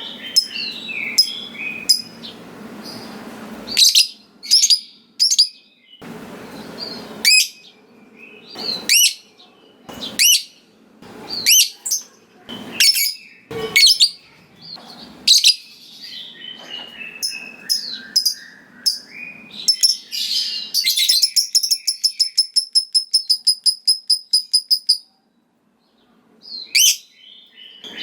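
Lovebird (Agapornis) giving sharp, shrill chirps one after another. About three-quarters of the way through, these break into a few seconds of fast, evenly repeated rattling chatter: the long 'ngekek' trill that keepers prize in fighter lovebirds. The calls stop for a moment, then start again near the end.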